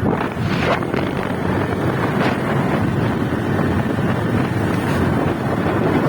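Wind buffeting the microphone on a moving motorcycle, with the engine and road noise underneath as a steady loud rumble.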